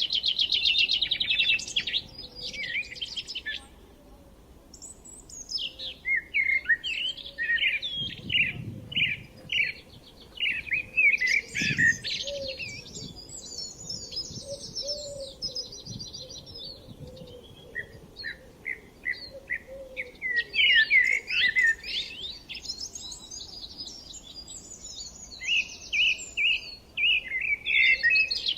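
Songbirds singing and chirping, in bursts of quick varied phrases and fast trills, with brief lulls between bursts.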